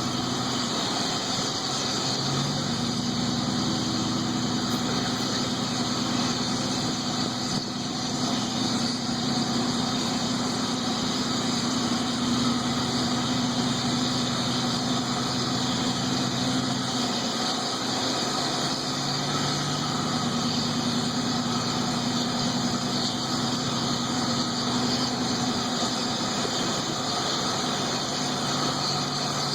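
Truck engine running steadily under load on an uphill climb, its pitch stepping slightly a couple of times.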